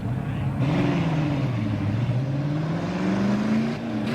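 Vintage drag car's engine running, its pitch climbing slowly for about three seconds, then dropping back near the end and holding steady.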